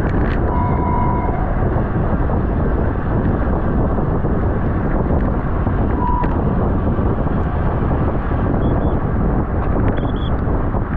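Steady rush of wind on the microphone of a camera riding along on a racing bicycle at speed, with a brief high tone about half a second in and a shorter one about six seconds in.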